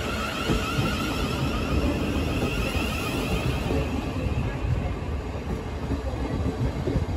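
Southeastern Class 707 Desiro City electric train pulling into a station platform and slowing: a steady low rumble of wheels on rail, with a high whine that fades out about halfway through.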